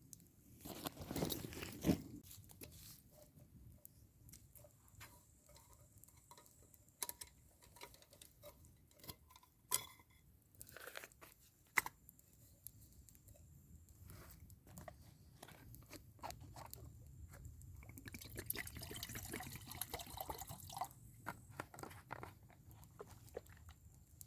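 Irregular crunching and rustling with scattered sharp clicks and snaps, loudest about two seconds in and again around ten and twelve seconds.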